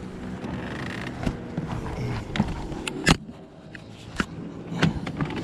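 Scattered knocks and clicks of handling aboard a plastic fishing kayak, with one sharper click about three seconds in, over a low rumble.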